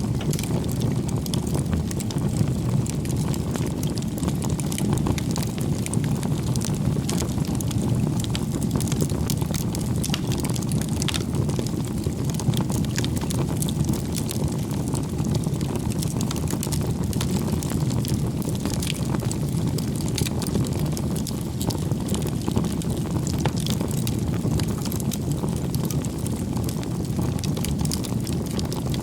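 Wood bonfire burning: a steady low rushing of the flames with frequent small, irregular crackles and pops from the burning firewood.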